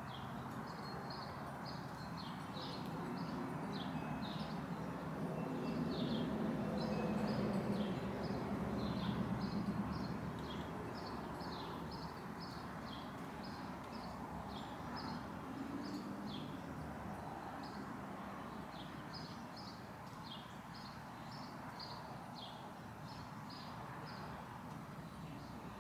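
Small birds chirping over and over in quick short notes, over a low rumble that swells for a few seconds about a third of the way in.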